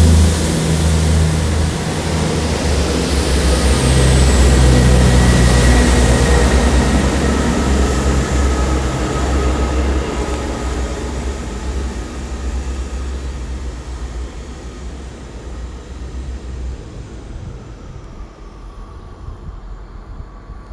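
South Western Railway diesel multiple unit pulling out, its underfloor diesel engines working hard with steps in engine note as it accelerates. The sound fades steadily as the train draws away, dying down by the end.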